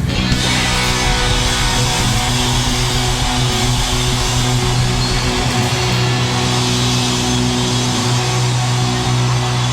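Live rock band with distorted electric guitar: the drums stop and a held chord rings on steadily, sustaining over a noisy wash.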